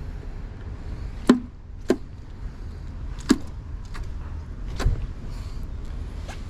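Sharp chopping knocks on a hard surface while crabs are being prepared: four loud strikes at uneven spacing, the last about five seconds in, over a steady low rumble.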